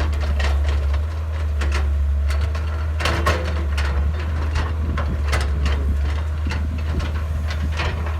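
Excavator's diesel engine running with a steady low drone, with irregular clanks and scrapes as the bucket digs into soil.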